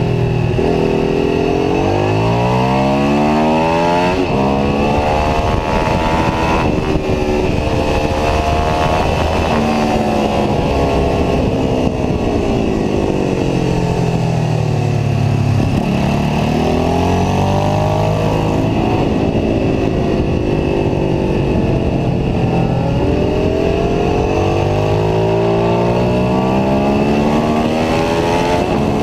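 Ducati 749S sport bike's L-twin engine at racing pace, its pitch climbing again and again under hard acceleration and dropping back on downshifts and braking, several times over.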